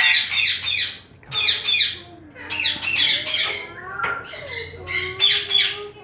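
Caged parrots screeching loudly in four bursts of rapid, harsh, high calls, each about a second long, with lower gliding whistles underneath.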